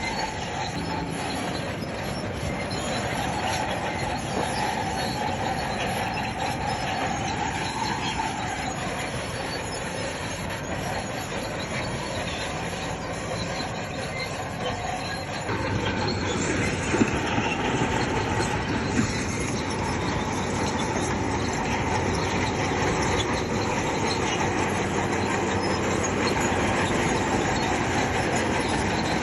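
Crawler bulldozer at work: the diesel engine runs under load while the steel tracks squeal and clank as they turn. About halfway through the sound changes abruptly, becoming louder and deeper.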